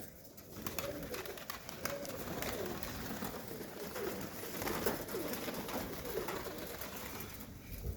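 Several domestic pigeons cooing, their rolling coos overlapping one another.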